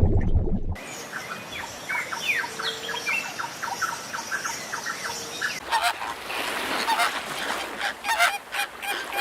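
A loud low sound stops abruptly just under a second in. Then a flock of domestic birds calls, with many short, overlapping calls repeating over a noisy background.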